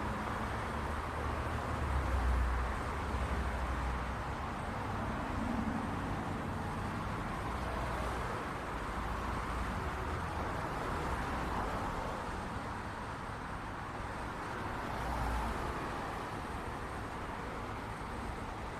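City street traffic: a steady wash of passing cars and tyre noise with low engine rumble, swelling as vehicles pass about two seconds in and again near the end.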